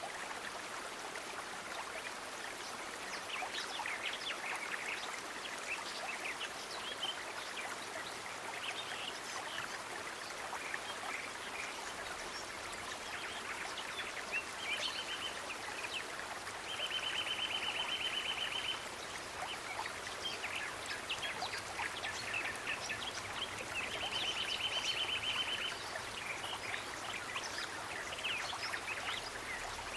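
Steady rush of running water, with scattered small drips and ticks. Three times a high, rapid trill rings out over it, each lasting a second or two.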